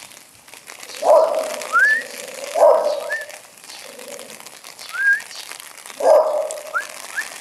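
A dog barking three times, with short gaps between the first two and a longer pause before the third. Short rising bird chirps sound between the barks.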